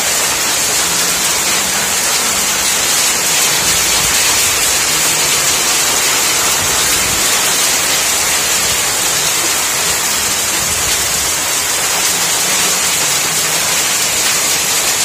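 Heavy rain of a hailstorm pouring onto wet ground and a roof, a dense steady hiss.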